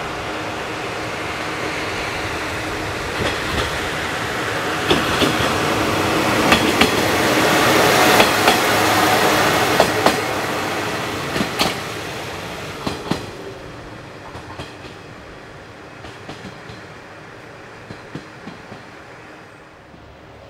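Diesel train running past on jointed track. Engine and wheel noise swell to a peak about eight seconds in and then fade, with paired clicks as the wheels cross rail joints.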